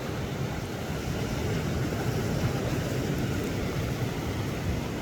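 Steady wind buffeting the microphone with a low rumble, over the wash of sea surf on the shore.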